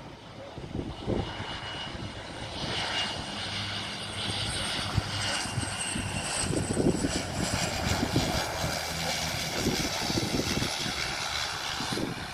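Aircraft engines running at the airport, growing louder about two seconds in and then holding steady, with a high whine over the rumble.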